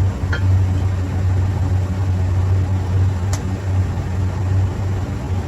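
Steady low machinery hum, with two light clicks, the sharper one about three seconds in.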